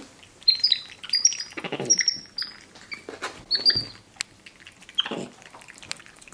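Capuchin monkeys giving many short, high-pitched chirps and squeaks in quick succession, with a few brief rustling noises among them.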